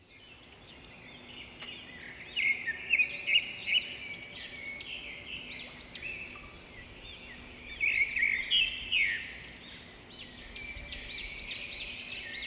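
Small birds chirping and twittering, many short overlapping calls that sweep up and down in pitch, with the busiest bursts about two seconds in and again around eight seconds.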